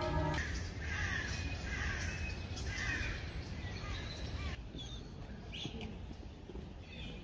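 Birds calling, about one call a second at first and then more scattered, over a low steady background. Background music stops about half a second in.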